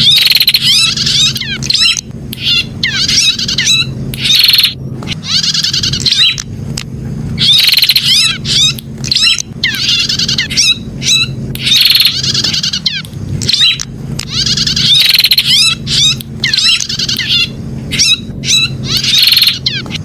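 Prenjak (prinia) calling over and over in quick bursts of rapid, sharp chirps and trills about a second long, separated by short gaps, over a steady low hum.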